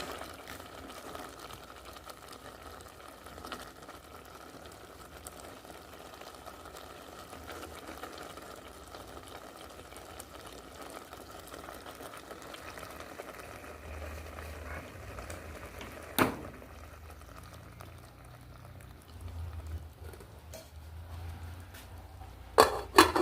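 Thick homemade herbal syrup of sugar and leaves bubbling softly in a pot, the bubbling fading after about halfway. A single sharp knock comes about two-thirds through, and a few loud clattering knocks come near the end.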